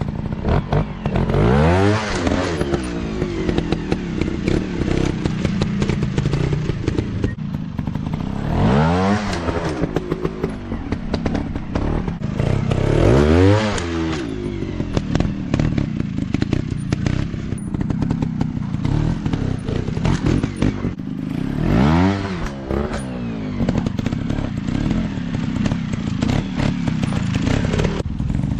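Dirt bike engine running and revving up and back down about four times, between stretches of steady running.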